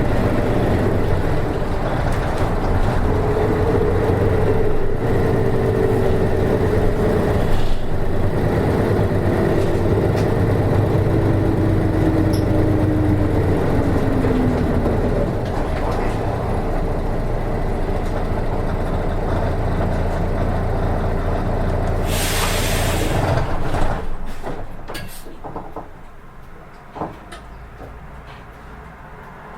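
Nishitetsu KK-RM252GSN route bus heard from inside: the diesel engine runs with a whine that falls in pitch as the bus slows. Near the end there is a short loud hiss of compressed air from the air brakes. After that it is quieter, with the engine idling and a few clicks.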